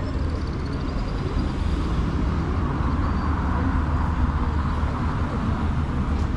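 City street traffic: a steady hum of engines and tyres with a deep rumble underneath, swelling slightly in the middle as vehicles go by.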